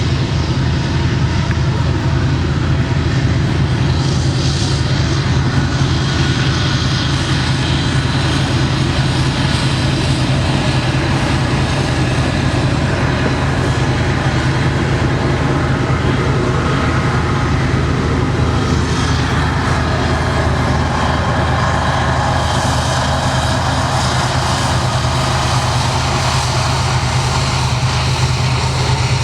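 Train rolling past, a loud steady rumble with a constant low hum.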